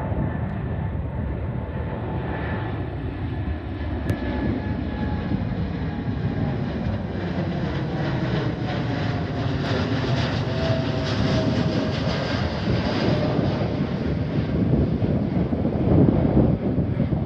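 Boeing 787-9's General Electric GEnx turbofan engines at takeoff power: a loud, steady jet roar that slowly grows louder, with a few faint whining tones sliding lower in pitch.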